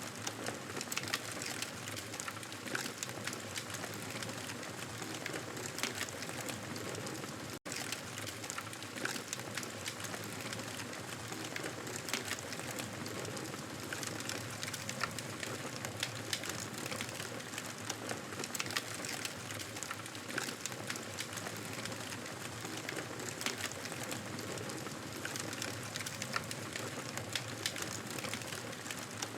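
Wood fire crackling: a steady hiss dotted with frequent sharp pops and snaps. The sound cuts out for an instant about seven and a half seconds in.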